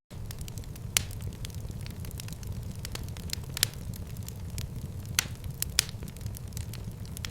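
Wood fire crackling in a fireplace: a steady low rumble of flames under sharp pops and snaps, the loudest about a second in and a quick run of three between five and six seconds in.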